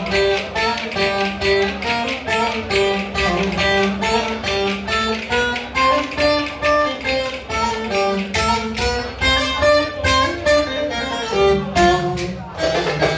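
Instrumental Ankara folk dance tune (oyun havası), with fast plucked-string melody over a brisk, steady beat.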